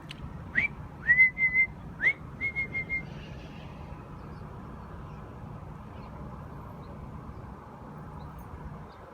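Clear whistled notes: a few quick upward slides, each followed by a short run of two or three level notes, lasting about three seconds, then only a steady low background hum.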